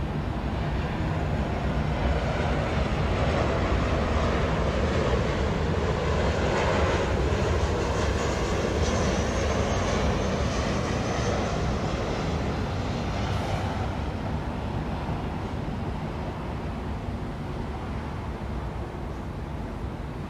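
Airplane passing overhead: a broad engine rumble that swells to its loudest a few seconds in and then slowly fades, over the steady noise of city traffic.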